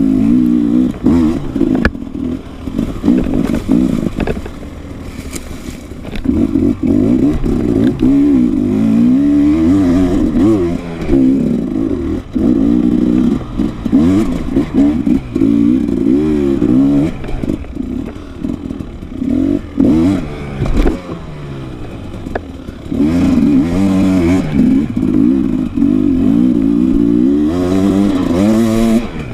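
Enduro dirt bike engine being ridden hard, the revs climbing and dropping again and again as the throttle is worked, with a couple of stretches backed off to lower revs. Some clatter runs underneath.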